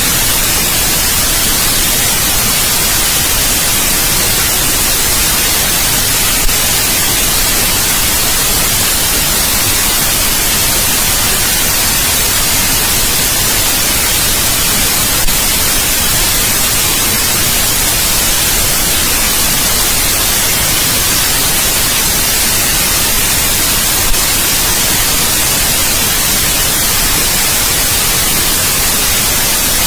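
Steady white noise: an even, unbroken hiss, strongest in the treble, played as a baby sleep sound. Three brief clicks come about nine seconds apart.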